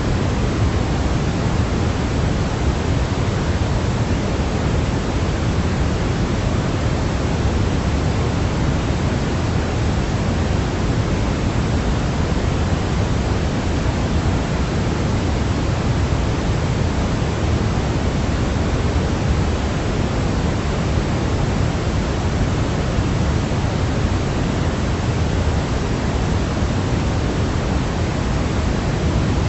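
Steady synthetic noise of the pink-noise kind, an even hiss that leans toward the low end, used as a sleep sound for babies. It does not change at all.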